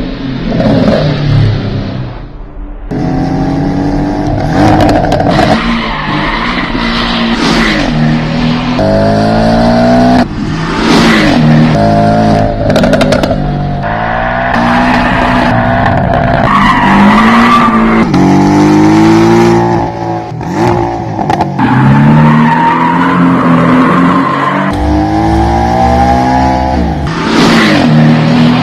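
Porsche 718 Cayman's engine and exhaust, loud, accelerating hard through the gears: the pitch climbs again and again and drops back at each shift.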